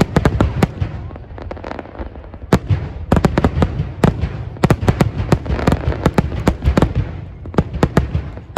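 Fireworks going off in rapid volleys of sharp bangs and crackles, coming in clusters with short lulls between them.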